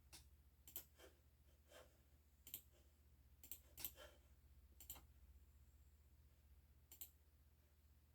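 Faint, irregular clicks and taps, about a dozen spaced unevenly, over a low steady hum.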